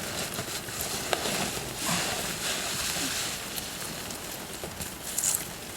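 A flock of sheep moving about: scattered hoof clicks and shuffling over a steady hiss, with a brief sharper sound about five seconds in.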